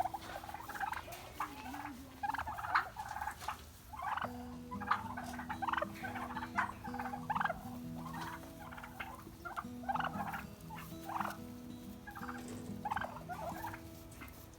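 Heritage turkeys calling, a run of short repeated yelps and chirps. Soft background music of held notes comes in about four seconds in.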